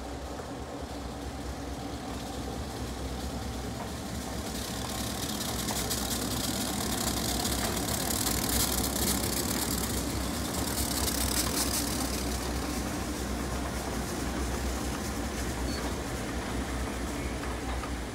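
Diesel locomotive engine running as it hauls passenger cars past, with the rumble and hiss of the train rolling on the track. It swells to its loudest in the middle as the locomotive passes, then eases slightly.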